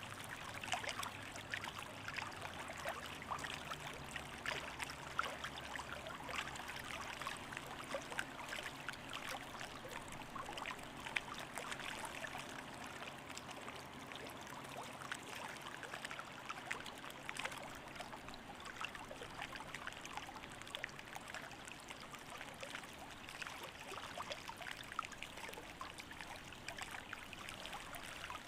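Running water trickling and splashing steadily, with many small crackles, over a faint low hum that dies away about two-thirds of the way through.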